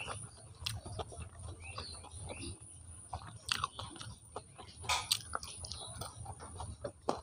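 Chewing a mouthful of tandoori chicken, with irregular sharp smacks and clicks of the mouth.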